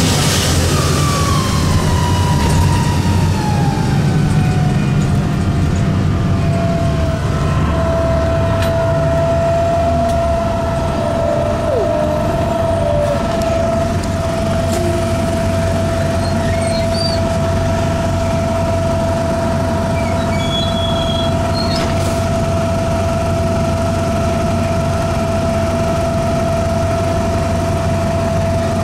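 Transit bus's Detroit Diesel Series 50 engine running under a loud, clear whine that falls in pitch over the first several seconds and then holds a steady tone. The whine is the odd noise from the engine and transmission compartment that the owner puts down to a bad turbo.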